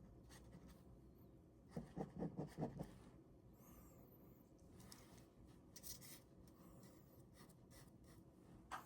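Ballpoint pen scratching on paper as it draws, faint, with a quick run of short back-and-forth strokes about two seconds in.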